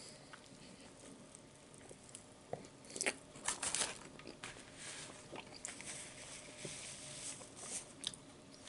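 Faint chewing of a mouthful of chicken club sandwich, mixed with scattered crinkles of its paper wrapper and a napkin. The loudest crackles come a few seconds in.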